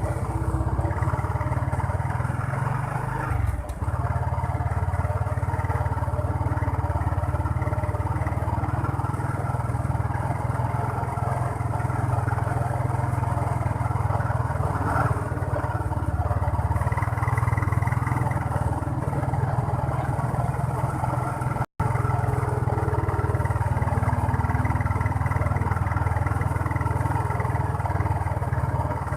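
Motorcycle engine running steadily while riding along a road, with steady road noise; the sound drops out for an instant about two-thirds of the way through.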